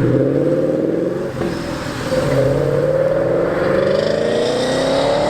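Car engine accelerating, its note climbing steadily with brief dips about one and two seconds in, like gear changes.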